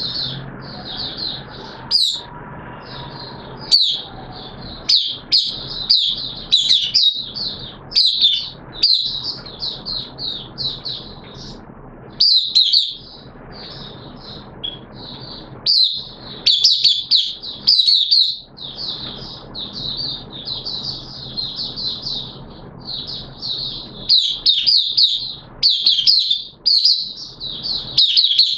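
White-eye (mata puteh) singing a long run of rapid, high twittering phrases broken by short pauses.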